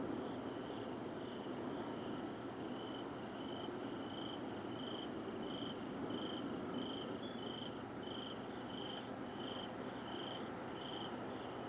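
A steady, low, rumbling roar from the sky of unknown origin, with a night insect chirping evenly over it, about one and a half chirps a second.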